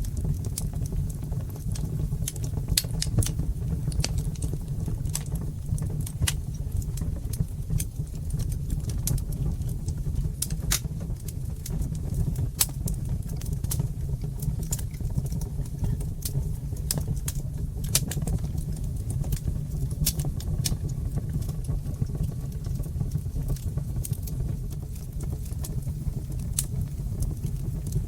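Wood fire crackling in a brick fireplace: frequent sharp, irregular pops and snaps over a steady low rumble of the burning fire.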